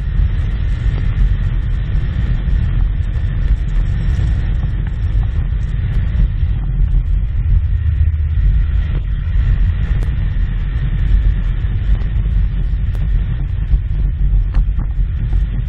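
Side-by-side utility vehicle driving, its engine running steadily under a loud low rumble, with wind buffeting the microphone and small rattles and clicks.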